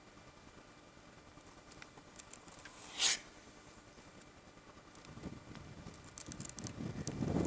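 Wrench work on engine head bolts: scattered light clicks and a short swish about three seconds in, then rustling and knocks that build up near the end.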